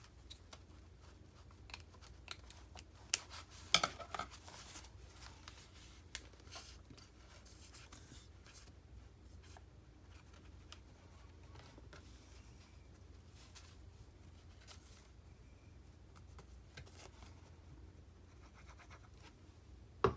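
Scissors snipping and paper and lace being handled, a run of sharp clicks and rustles that is loudest about four seconds in, followed by quieter handling and rubbing.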